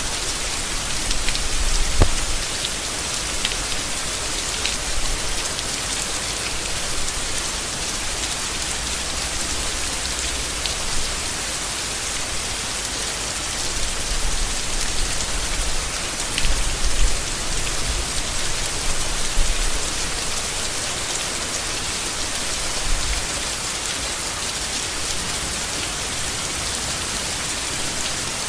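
Steady rain falling on leaves, with the odd heavier drop ticking out now and then and a few brief low rumbles underneath.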